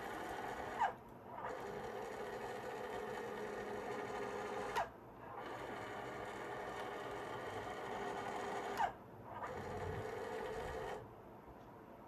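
Small electric motor and gears of a repaired gyro stage running in repeated runs of about four seconds. Each run ends with a short whine and a click, then restarts, and the running stops about a second before the end.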